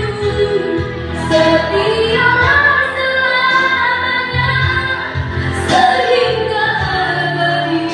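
A woman singing with instrumental accompaniment, holding long notes that slide between pitches.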